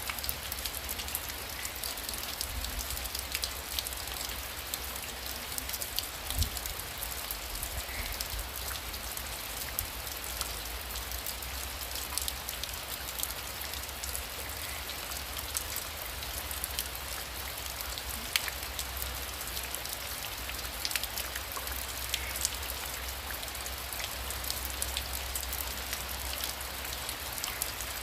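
Heavy rain falling steadily: a dense hiss with many individual drops ticking sharply on a surface and a low rumble underneath. A single duller thump comes about six seconds in.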